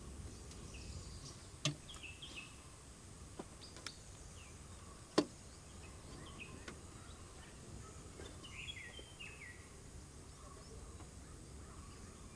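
Faint outdoor ambience with birds chirping: short falling notes in small runs about two seconds in and again later on. A few faint clicks are heard in between.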